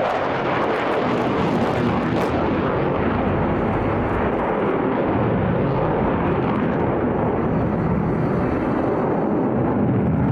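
Loud, steady jet noise from a Eurofighter Typhoon's two Eurojet EJ200 turbofans as the jet flies its display manoeuvres.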